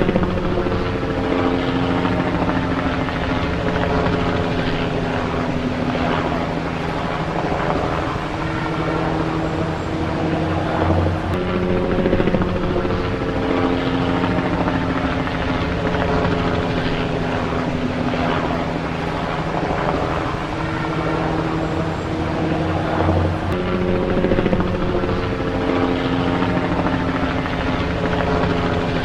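Helicopter engine and rotors running steadily. The same stretch of sound recurs about every eleven and a half seconds, as if looped.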